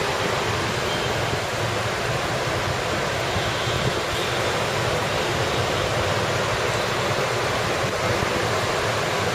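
Heavy rain pouring steadily, an even hiss with a low rumble of road traffic beneath it.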